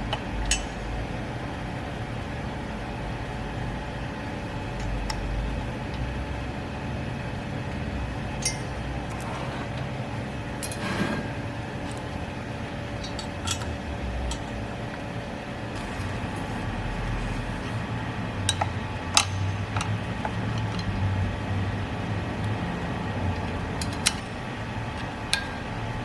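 Steady low hum and rumble with a faint steady tone, broken by scattered light clicks and clinks.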